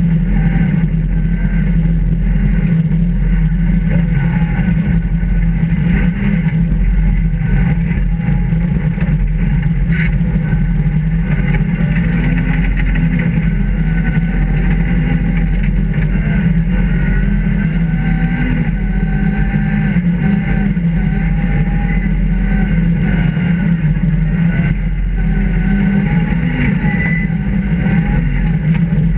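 Rally car engine heard from inside the cabin, running hard at speed, its note rising and falling with throttle and gear changes between third and fourth.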